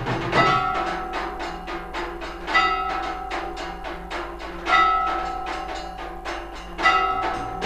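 Temple aarti percussion: a bell struck about every two seconds and left ringing, over fast, steady beating of drums and other percussion.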